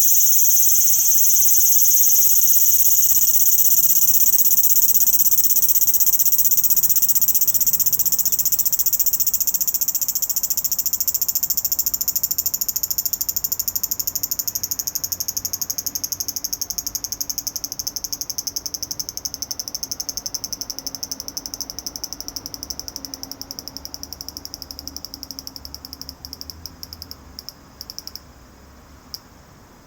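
A cicada singing, a loud steady high buzz that gradually weakens, breaks up into rapid pulses and stops shortly before the end: the close of one song.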